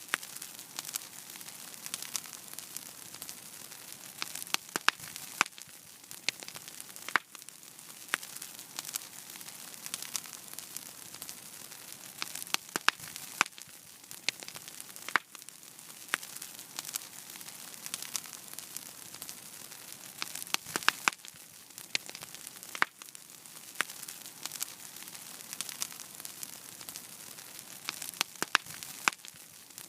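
Wood fire burning in a fireplace: a steady hiss with frequent, irregular sharp crackles and pops.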